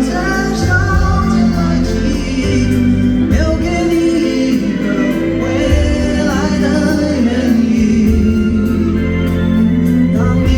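Live band music with singing, loud and continuous throughout.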